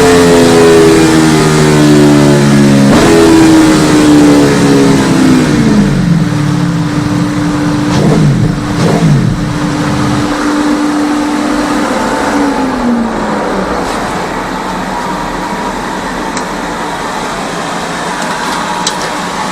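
Aprilia Tuono 1100's V4 engine on a rolling-road dyno, revs falling after a run, with a brief rise about three seconds in before it winds down. A steady whine then holds, drops away about twelve seconds in, and gives way to an even mechanical hum.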